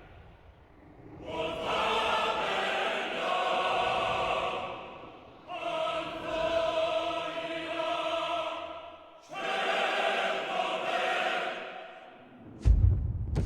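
A choir in a film score sings long, held phrases in three swells, each fading out before the next. Near the end comes a single deep boom, the loudest sound of the stretch.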